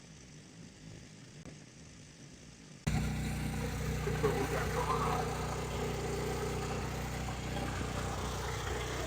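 An engine running steadily at idle, cutting in suddenly about three seconds in after a faint low hiss.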